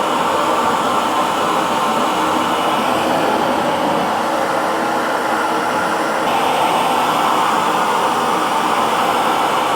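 Electric hair dryer running steadily, a continuous blowing whoosh with a faint motor hum; its higher hiss shifts slightly about six seconds in.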